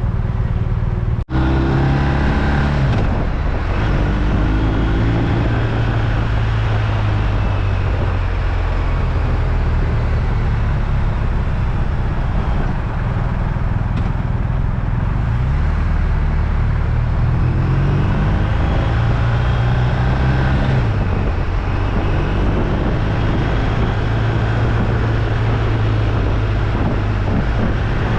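BMW R1250RT's boxer-twin engine running under way, its pitch climbing and dropping back several times as the bike accelerates and changes gear, over steady riding noise. There is a brief dropout in the audio about a second in.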